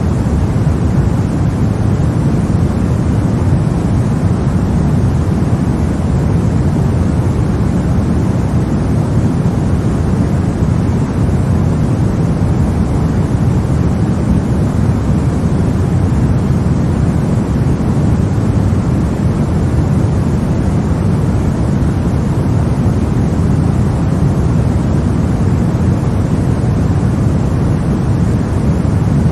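Steady, unchanging noise for lulling a baby to sleep, heaviest in the low range and softer in the highs, like a deep hush without any tones or breaks.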